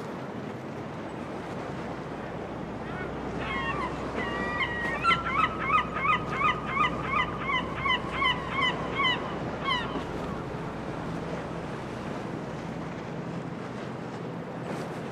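A gull giving a long run of repeated calls, about two a second for some seven seconds, over steady wind and surf noise.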